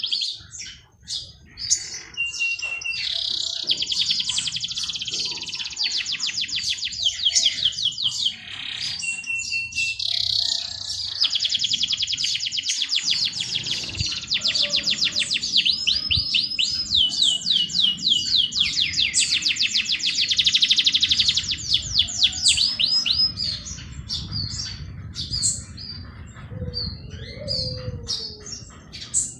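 Songbirds singing: long, very fast trills and chirps overlapping, with a few short clear whistled notes. A low steady rush comes in under the birdsong about halfway through.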